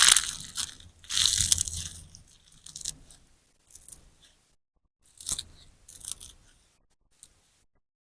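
Sponge slime, a large sponge soaked with clear slime, being squeezed and pressed by hand, giving crackly, popping squelches. The bursts come in irregular squeezes, loudest in the first two seconds and growing fainter and sparser after that.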